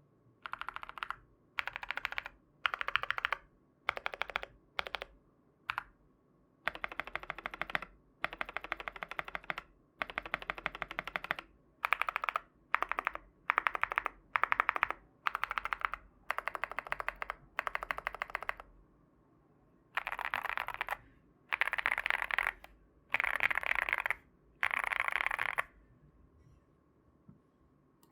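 Mechanical keyboard with factory-lubed Tecsee Ice Mango tactile switches in a Sugar65 kit with a polycarbonate plate and gasket mounting, being typed on in quick bursts of keystrokes separated by short pauses. Near the end come four longer bursts that are brighter than the rest, and then the typing stops.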